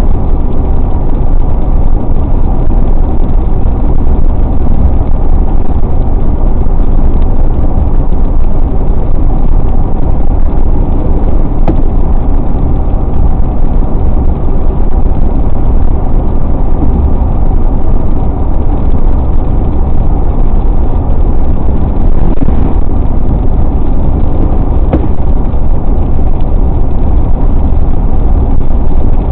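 Car driving steadily at highway speed: continuous road and engine noise with a heavy low rumble and no changes.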